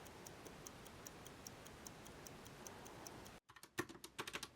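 Pocket watch ticking fast and light, about five ticks a second. It cuts off abruptly a little after three seconds in, and a second of quick irregular clicking like typing follows.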